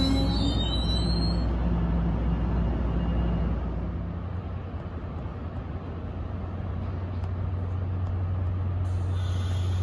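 NJ Transit multilevel train standing at the platform with a steady low hum from its idling equipment; the hum strengthens about halfway through. In the first second or so, the last of the brake squeal from its stop dies away.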